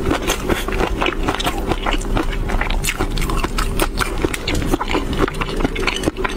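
Close-miked chewing with dense, sharp crackles and pops from a mouthful coated in flying fish roe, and a spatula scraping across a ceramic plate while roe is gathered.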